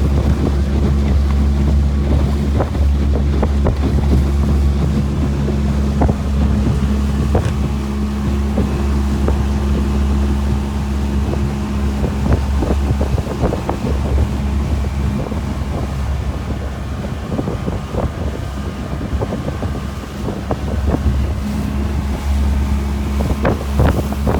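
Motorboat engine running steadily under way, a low even drone, with wind rushing over the microphone and scattered short knocks and slaps throughout.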